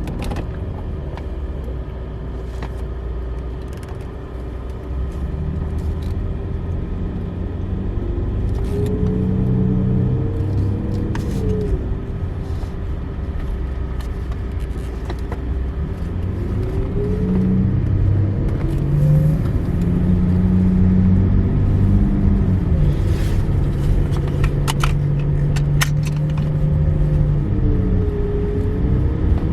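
V12 engine of a 2000 BMW 750iL running, its pitch swinging up and back down several times as engine speed changes, with a few light clicks.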